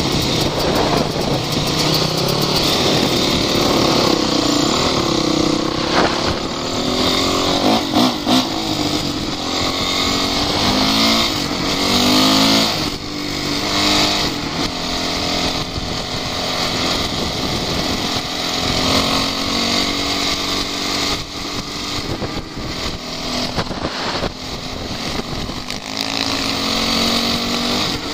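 Off-road vehicle engine being driven over rough ground, its revs rising and falling as it accelerates and eases off, with occasional knocks and rattles.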